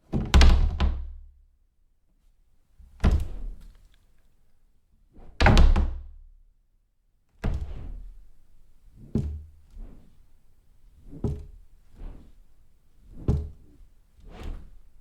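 A door being shut again and again: about a dozen separate closing thuds, one to two seconds apart. The first few are the loudest and the later ones are softer.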